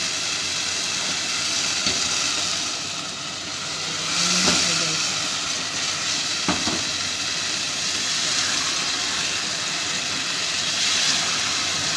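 Chicken pieces sizzling as they fry in a pot, stirred with a wooden spoon, with a few knocks of the spoon against the pot.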